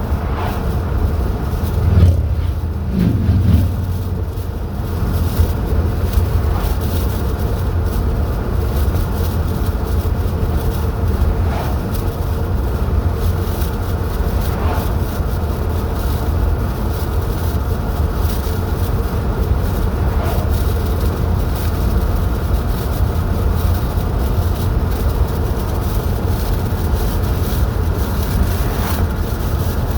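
A car being driven on the road: a steady low rumble of engine and tyre noise, with a couple of short louder bumps about two and three seconds in.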